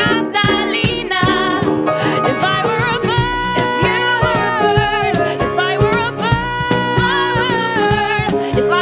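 Acoustic pop-ballad music: women's voices holding long, sliding notes with no clear words, over strummed guitar and a steady drum beat.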